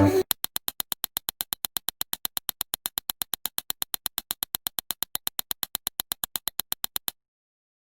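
A rapid, perfectly even train of short electronic clicks, about seven a second, that cuts off suddenly about a second before the end, leaving dead silence.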